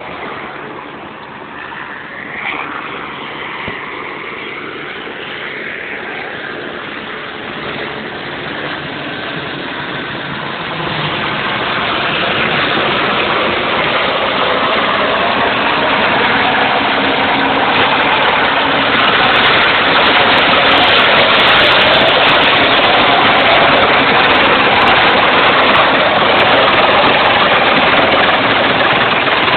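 Helicopter engine and rotor noise, growing louder about a third of the way in and then holding steady while it hovers to fill its water bucket.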